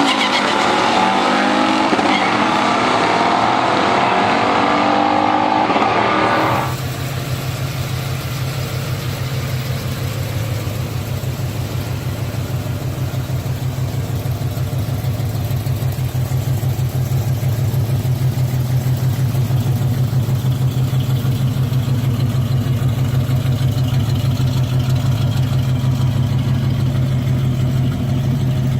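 Muscle car engine sounds: for about the first six seconds an engine revs with its pitch sliding up and down, then after an abrupt cut a steady engine runs with a low, even pulse.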